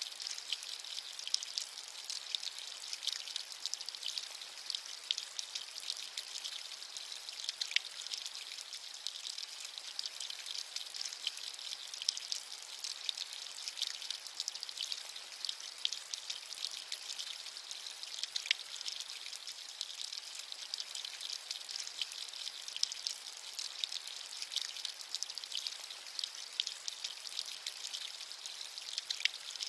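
Steady rain with dense drop patter and a few heavier individual drops tapping.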